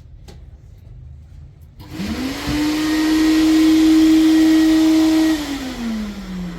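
Vacuum cleaner switched on: the motor spins up quickly to a steady whine with a rush of air, runs for about three seconds, then is switched off and winds down, falling in pitch.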